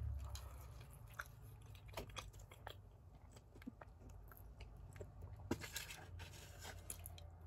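Faint chewing and crunching with irregular small mouth clicks: someone eating Wingstop fried food close to the microphone.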